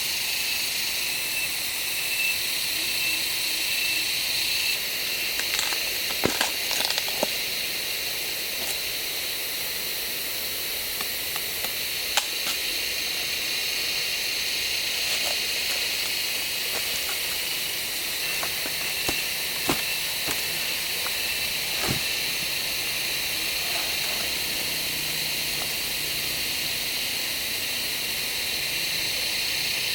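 Steady high-pitched hiss throughout, with a few scattered sharp clicks and knocks.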